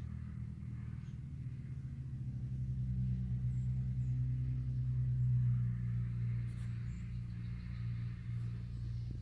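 A steady low engine hum, like a vehicle engine running at idle, with a few faint, short, high bird chirps.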